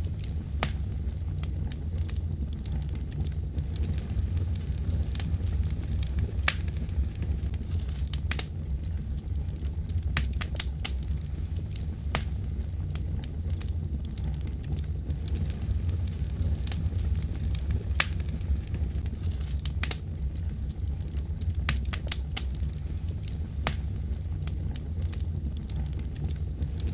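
Fire crackling: sharp, irregular pops and snaps, several a second at times, over a steady low rumble.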